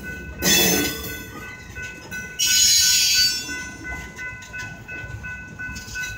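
Freight train cars rolling past on the track, a steady low rumble with several thin high-pitched tones running over it. Two louder hissing bursts stand out, a short one about half a second in and a longer, louder one about two and a half seconds in.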